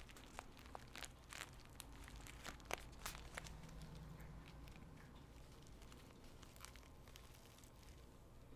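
Tea bag handled close to the microphone: soft crinkling and crackling, with sharp crackles most frequent in the first three seconds, then fewer and fainter.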